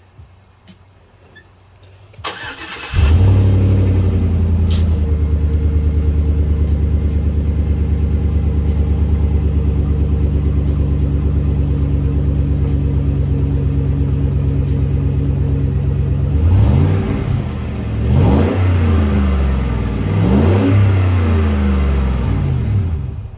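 2012 Chevrolet Silverado pickup's engine started through a newly fitted Dynomax 39495 aftermarket exhaust: a brief crank, the engine catches about three seconds in and idles steadily, then is revved several times, each rev rising and falling, before it is shut off near the end. The exhaust has a growl that is not too loud.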